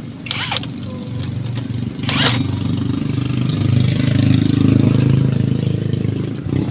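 A vehicle engine running close by, growing louder through the middle and dropping away at the end, with a couple of short sharp knocks early on.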